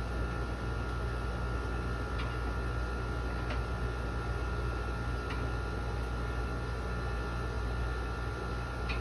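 Steady hum of a running machine, with a few light, irregular clicks of a flat screwdriver working at a part stuck fast in a window air conditioner's metal casing.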